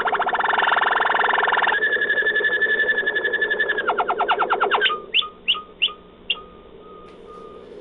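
Malinois Waterslager canary singing: a fast rolling trill, then a long held whistle, then another quick roll. About five seconds in come four separate rising notes, followed by soft short repeated notes near the end.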